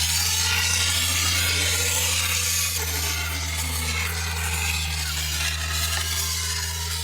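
A machine running with a steady low hum, under a loud, even hissing-scraping noise; both stop together just after the end.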